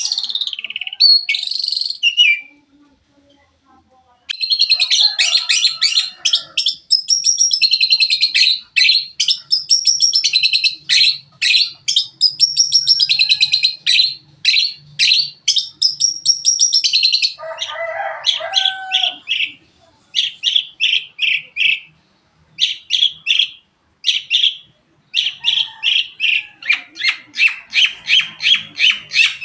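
Long-tailed shrike (cendet) singing a loud, fast string of sharp repeated chirps and trills, worked through with songs mimicked from other birds. It falls silent for a moment about three seconds in, and has a short lower, harsher phrase just past halfway.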